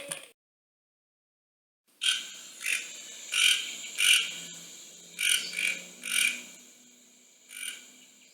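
Frog calling: about eight short croaks at irregular intervals, fading towards the end, over a steady high thin hum of night insects.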